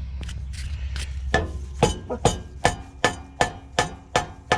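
Rubber mallet striking a homemade exhaust pipe to drive it up into place: a steady series of blows, about two to three a second, starting about a second and a half in. The pipe rings briefly after each blow.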